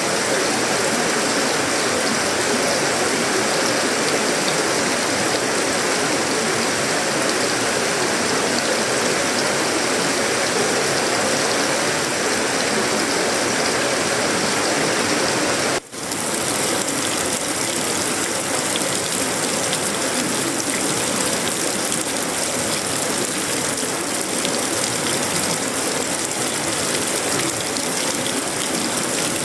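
Heavy tropical rain falling steadily on a sheet-metal roof, wood and leaves, an even dense hiss. The sound drops out for an instant just past halfway.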